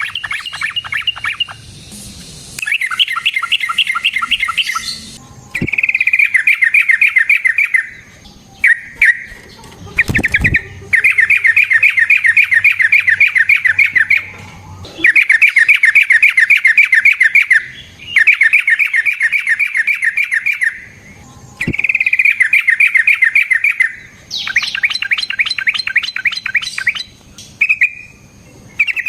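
Yellow-vented bulbul (trucukan) singing in long, rapid trilled phrases, each a few seconds long, separated by short pauses.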